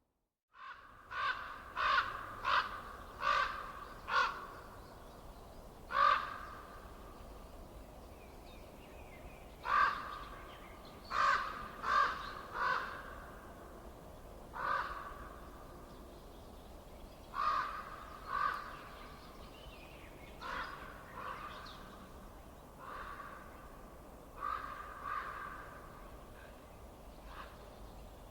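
A bird calling over and over in short calls, often in quick runs of two to four, over a faint steady background hiss.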